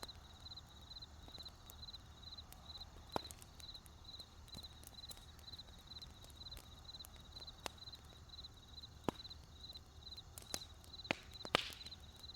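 Campfire wood crackling with scattered sharp pops, the loudest near the end, over a cricket chirping steadily in short pulsed chirps about twice a second.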